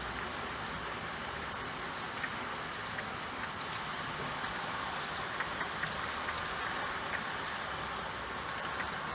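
Steady rain falling, an even hiss with scattered sharp ticks of single drops and a low rumble underneath.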